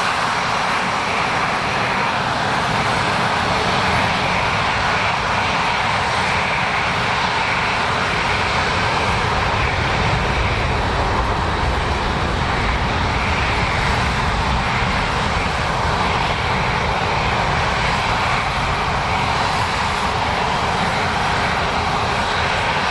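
Airliner engines running with a loud, steady, even noise that neither rises nor fades.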